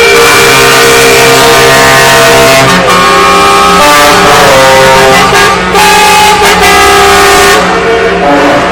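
Several truck air horns blowing at once in long overlapping blasts, very loud, their pitches changing as different horns start and stop.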